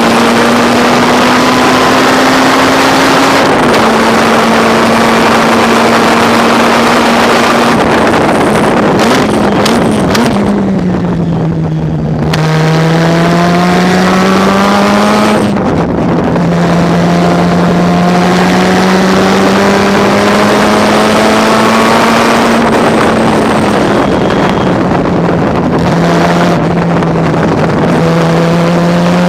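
Mazda RX-7 race car's rotary engine at full throttle on track. The pitch climbs through each gear and drops at every upshift. Around ten seconds in, the driver lifts off with quick downshift blips, then the engine pulls hard again.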